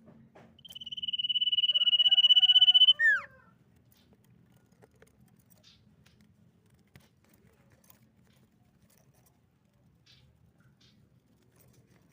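Common iora singing: one long high whistled note that swells in loudness for about two seconds, ended by a quick falling note. Afterwards only faint low background hum and a few soft clicks.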